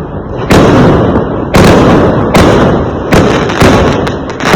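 Fireworks exploding in quick succession: about six loud bangs in under five seconds, each followed by a short rumbling decay.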